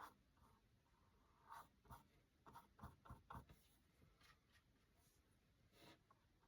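Faint strokes of a paintbrush on canvas, with a cluster of soft taps and clicks in the middle and one more near the end.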